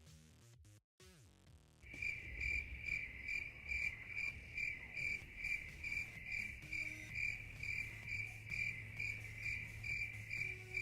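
Cricket chirping sound effect: a steady run of high, even chirps, about two or three a second, starting about two seconds in. It is the stock "crickets" gag for an awkward silence.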